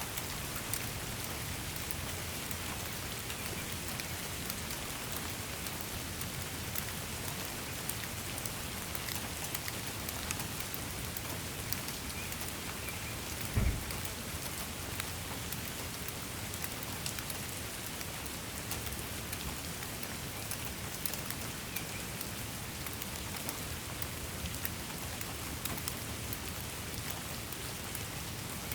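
Steady rain falling, with fine drop patter. About halfway through there is a single brief low thump.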